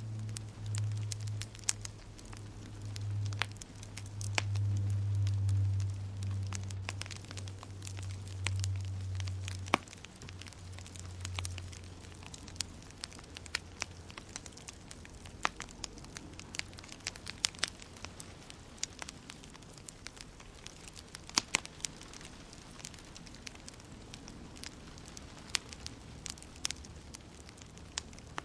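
Wood fire crackling in a fireplace, with many sharp pops at irregular moments. A low rumble runs under it for the first ten seconds or so and fades out.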